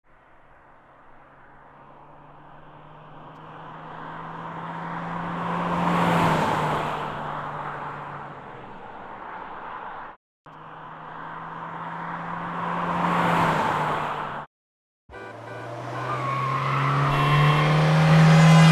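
Toyota Matrix driving past a roadside microphone in separate takes. Twice the engine note swells as the car approaches, then drops in pitch as it goes by. In the last take the engine climbs in pitch as it accelerates toward the microphone.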